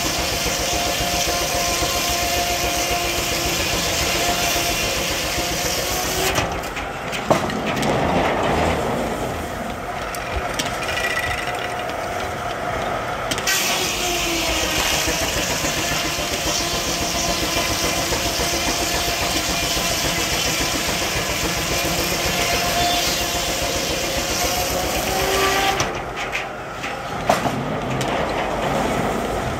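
Steam-powered sawmill machinery running with a steady whine whose pitch sags and recovers a few times, and the sound changes abruptly twice.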